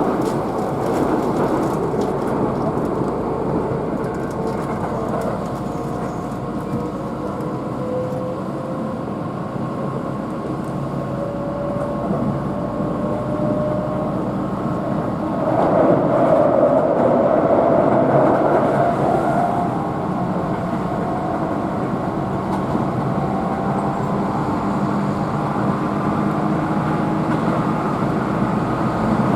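Keihan electric train running at speed, heard from inside the passenger car: a steady rumble of wheels on rail with a faint motor whine that slowly rises in pitch. About halfway through, the noise grows louder for some four seconds, then settles back.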